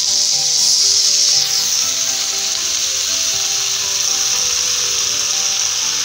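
Steamed chopped spinach sizzling in hot oil in a kadai: a steady hiss, a little stronger for the first second and a half and then easing slightly. Background music plays underneath.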